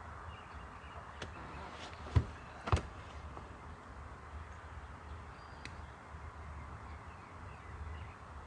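Two sharp knocks about half a second apart, the loudest sounds here, with a faint click just before them, over a steady background hiss.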